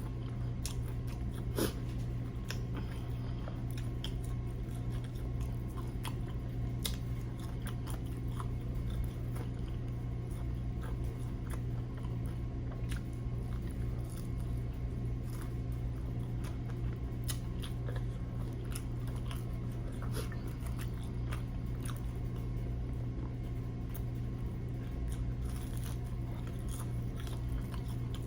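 A person chewing and biting into crispy fried chicken wings, with scattered small crunches, over a steady low hum.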